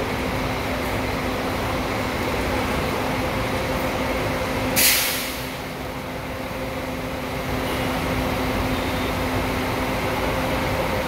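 A coach bus running at idle with a steady hum. About five seconds in there is one short, sharp hiss of compressed air from its air brakes.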